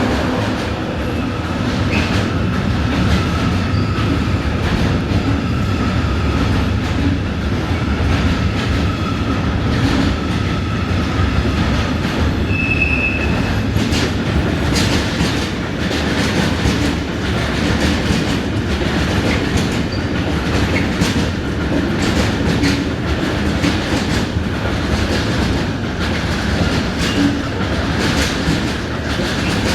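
A train rolling along the track with a steady rumble and the wheels clicking over rail joints. A brief wheel squeal comes about 13 seconds in.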